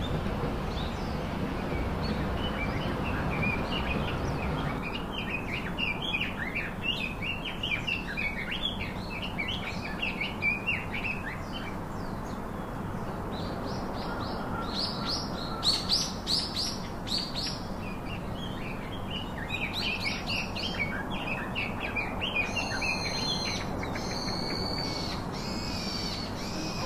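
Birds chirping in quick, repeated bursts over a steady background hiss, with longer, drawn-out calls near the end.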